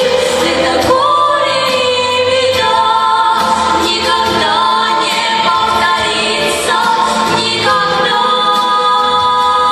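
A choir singing a slow song in long, held notes, with several voices together and the pitch changing every second or two.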